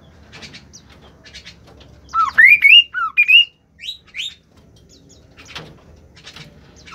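A bird calling: about two seconds in, a loud burst of quick whistled notes, each sliding down and then up, followed by two higher rising notes. Faint short chirps sound before and after.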